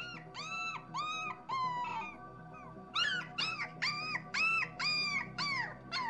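Shar Pei puppies whimpering: a run of short, high-pitched whines, with a pause of about a second partway through, over soft background music.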